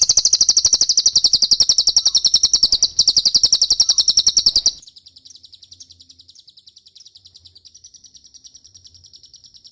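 Cililin song from a bird-training (masteran) recording: a rapid, evenly spaced trill of high chirps. It is loud for about five seconds, then carries on much fainter.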